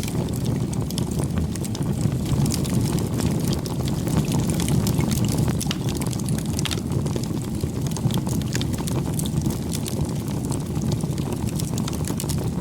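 Campfire burning: a steady low rumble of flames with frequent irregular crackles and sharp pops from the burning wood.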